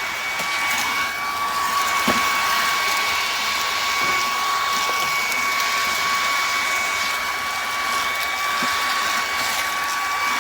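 Bissell PowerClean cordless stick vacuum running steadily, its motor giving an even whine over a rushing air noise.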